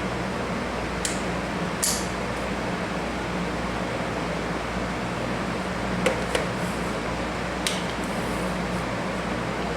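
Steady low hum and hiss of room noise, broken by a few light clicks and a short rustle about two seconds in, as small objects are handled.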